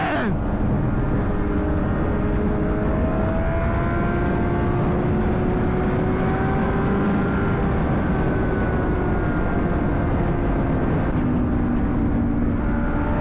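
2009 Honda CBR600RR's inline-four engine running at speed, its pitch climbing slowly, dipping once and then climbing again near the end, over a steady low wind rumble.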